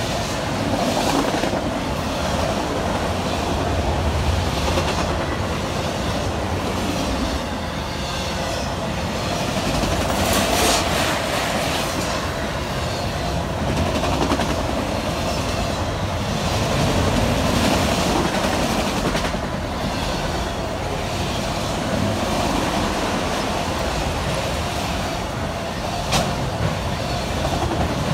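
Freight train of autorack cars rolling past close by: a steady rumble of steel wheels on rail with a steady whining tone underneath and intermittent clicks as wheels cross rail joints, the sharpest near the end.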